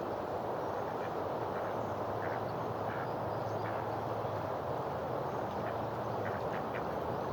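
Steady background noise with short bird calls over it, a few at a time, with a small cluster near the end.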